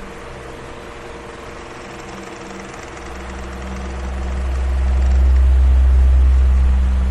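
Electric fan running: a steady motor hum under a broad hiss of moving air. About halfway through, a deep low rumble of air on the microphone swells up and becomes the loudest part, then eases off near the end.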